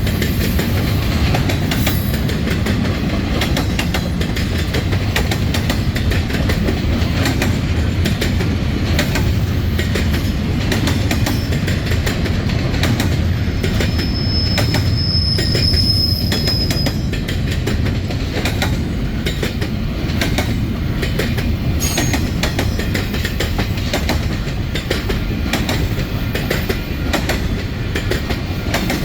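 Norfolk Southern freight train rolling past over the rails: a steady low rumble of wheels with a constant clatter. About halfway through, a wheel squeals briefly on a high pitch.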